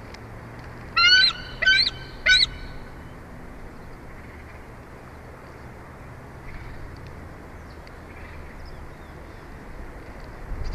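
A bald eagle gives three short, high, squealing calls in quick succession about a second in, over steady outdoor background noise.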